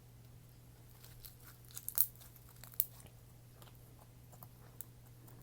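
Slime being squished and played with by hand, making scattered small crackles and clicks, with two sharper snaps about two and three seconds in.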